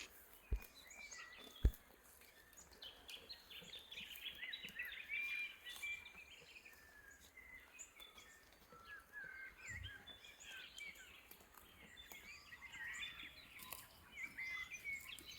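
Several small birds chirping and twittering in a faint dawn chorus, many short overlapping calls and trills. Two brief low thumps sound near the start.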